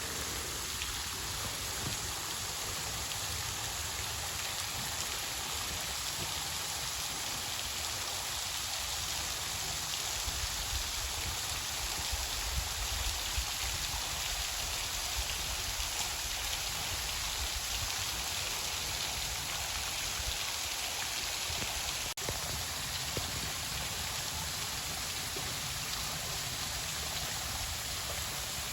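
Steady, even hiss of falling and splashing water: runoff from heavy rain pouring into a deep sinkhole.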